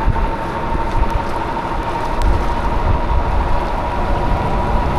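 Riding noise on a moving e-bike in the rain: wind rushing and buffeting over the camera microphone, with tyre noise on the wet road and a thin, steady whine throughout.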